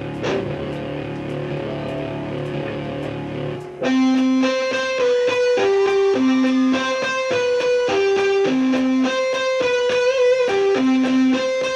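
Live rock band music: a held chord rings for the first few seconds, then about four seconds in a guitar starts a picked riff of clear single notes that repeats through the rest.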